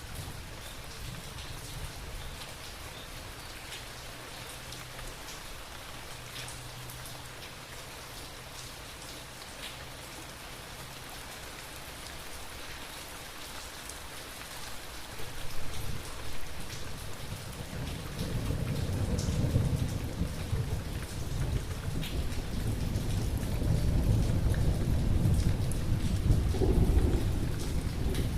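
Steady rain falling, with scattered individual drops ticking. About halfway through, a deep rumble of thunder builds and rolls on, growing loudest near the end.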